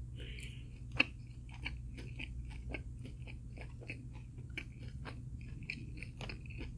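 Close-up chewing of food, a run of short crisp, moist clicks two or three a second, with one sharper crunch about a second in.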